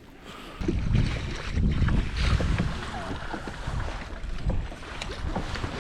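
Wind buffeting the microphone in uneven gusts that start about half a second in, over the wash of water around a kayak.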